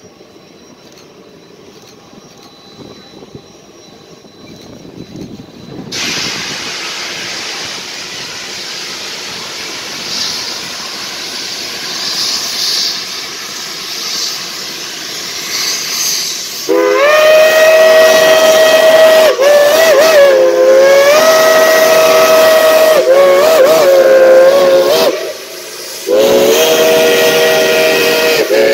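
Steam locomotive letting off steam in a loud hiss from about six seconds in, then its steam whistle blowing long blasts from about 17 s, the pitch bending as the whistle is worked, with a brief break near the end before it sounds again.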